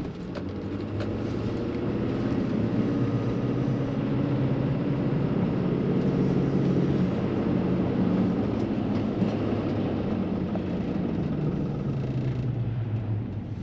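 Car engine hum and road noise heard from inside the cabin as the car pulls away and gathers speed. The sound builds over the first few seconds, holds steady, then eases off near the end.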